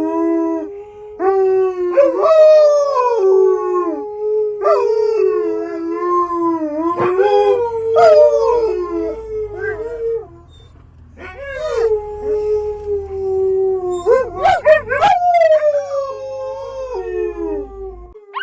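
Wolfdog howling: a run of long, drawn-out howls that hold and bend in pitch, with a brief pause about ten seconds in and a wavering, warbling stretch near the end.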